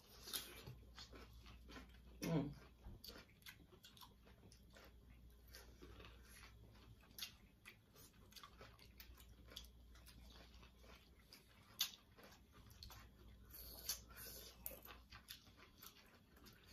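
Faint, close chewing and mouth sounds of people eating with their fingers: many soft clicks and smacks, with a brief louder sound about two seconds in.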